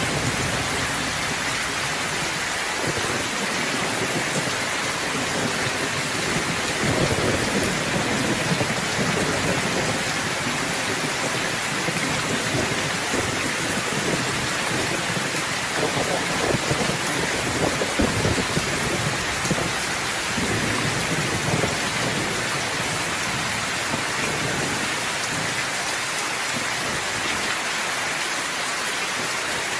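Steady heavy rain pattering on surfaces, with low thunder rumbling in the background, swelling now and then through the middle.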